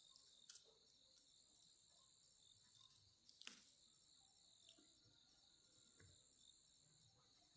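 Faint, steady chirring of insects, with a few faint clicks.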